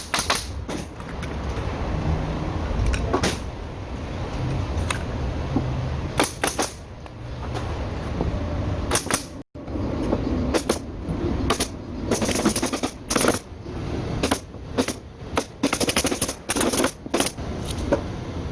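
Pneumatic nail gun firing into ceiling framing: single sharp shots every second or two, then quick runs of shots in the last third, over a steady low rumble.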